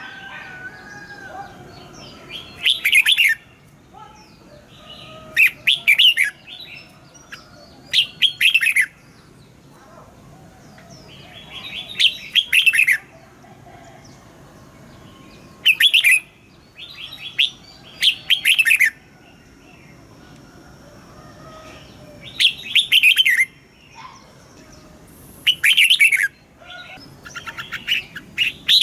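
Red-whiskered bulbul singing: about ten short, loud phrases of rapid notes, one every two or three seconds, with faint softer chirps between them.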